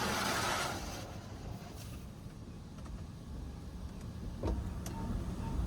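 High-pressure rinse jets of a touchless automatic car wash hitting the car, heard from inside the cabin as a loud hiss that cuts off under a second in. A low, steady rumble carries on after it, with a few faint clicks near the end.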